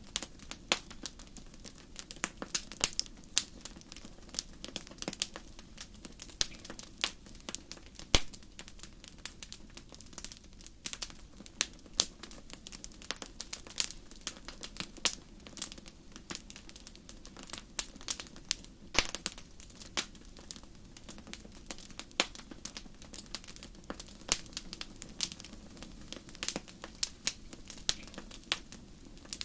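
Fireplace fire crackling: irregular sharp pops and snaps, several a second, over a steady low rush of flame, with a few louder pops such as one about eight seconds in.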